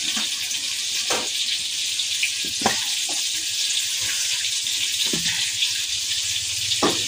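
Eggplant frying in hot oil: a steady sizzle with a few sharp pops and crackles.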